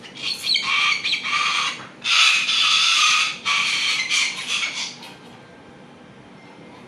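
Pet bird giving a series of loud, harsh calls for about five seconds, the longest one near the middle, then falling quiet.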